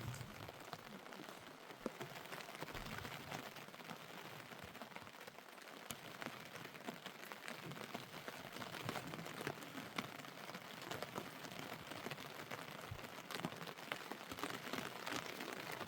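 Rain falling steadily, a soft hiss with many separate drops ticking on a nearby surface.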